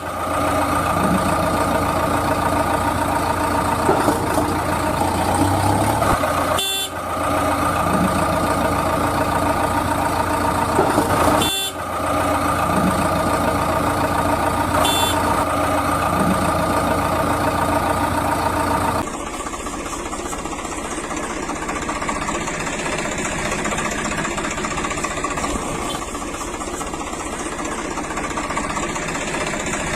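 A vehicle engine runs steadily. It breaks off abruptly twice, about seven and twelve seconds in, then gives way to a different, thinner engine sound about nineteen seconds in.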